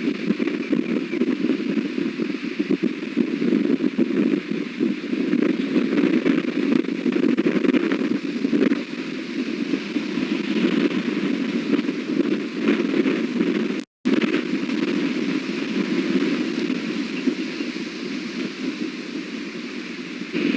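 Strong wind buffeting the nest-cam microphone, a steady rushing noise. The sound cuts out completely for a moment about two-thirds of the way through.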